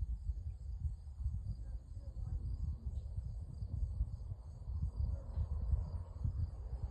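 Insects trilling in a steady, high-pitched chorus, heard under a low, uneven rumble that is the loudest sound.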